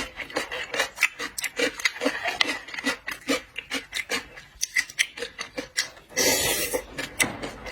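A person chewing seafood close to the microphone: rapid, irregular wet chewing and smacking clicks, several a second, with a short hiss-like burst a little after six seconds in.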